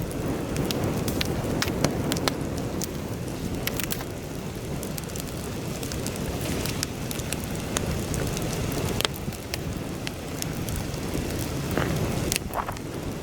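Wood campfire crackling with scattered sharp pops, under a steady low rumble of heavy wind buffeting the microphone. The pops come thicker near the end.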